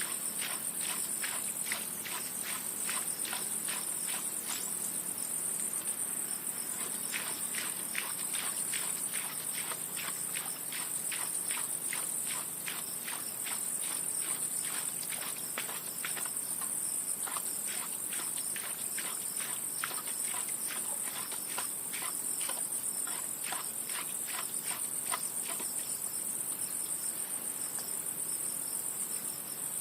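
Steady high-pitched chorus of crickets, with runs of sharp clicks, a few a second, coming and going over it.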